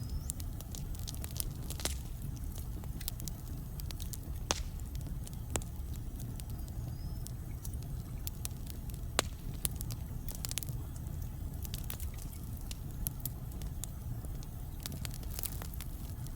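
Wood fire burning in a fireplace: irregular sharp crackles and occasional louder pops over a steady low rumble of the flames.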